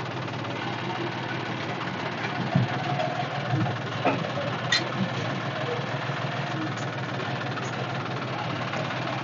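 Tractor engine idling steadily, with a couple of short sharp clicks.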